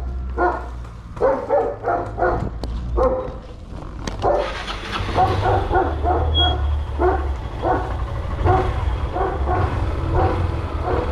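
A dog barking over and over in quick runs of short barks, with a low steady rumble underneath.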